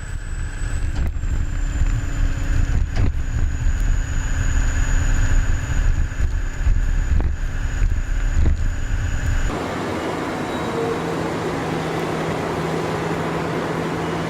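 Caterpillar D10 bulldozer's V12 diesel engine running: a deep, uneven rumble with a steady high whine and a few sharp clanks. About nine and a half seconds in, the sound cuts suddenly to a steadier, hissing machine noise with a low hum.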